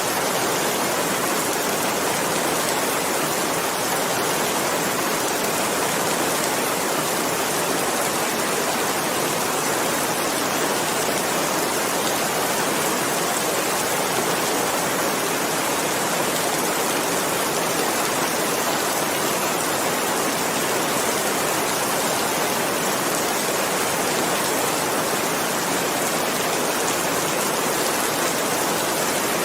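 Steady, unbroken rain, a dense even hiss of many drops with no distinct individual drips or thunder.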